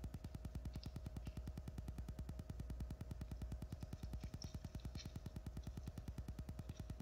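Holiday train rolling past: a low rumble with a fast, regular pulsing and a steady hum, with a few faint high ticks.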